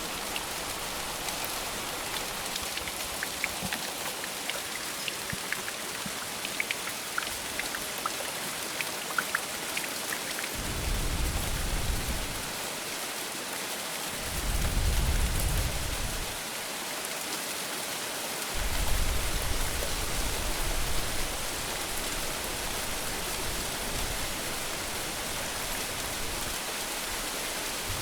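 Steady heavy rain hissing, with scattered drip ticks. Low rumbles of thunder come in three rolls, starting about ten, fourteen and eighteen seconds in; the last is the longest and loudest.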